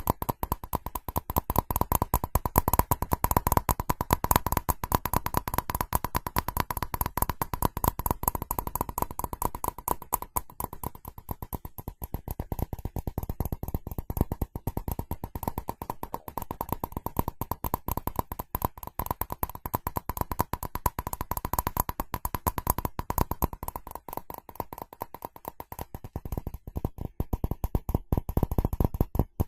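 Rapid, continuous tapping on ceramic, many taps a second, the ceramic ringing with a steady tone that is strongest in the first ten seconds or so and fainter afterwards.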